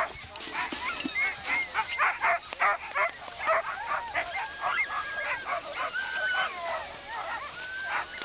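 A pack of sled dogs barking, yipping and whining together, many short calls overlapping, with a few drawn-out whines among them.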